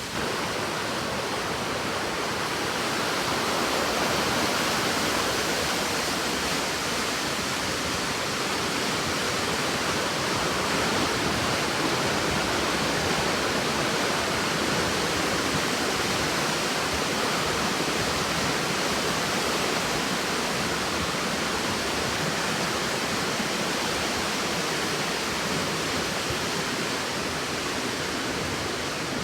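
River water rushing steadily over rocks at a waterfall, an even, unbroken wash of sound.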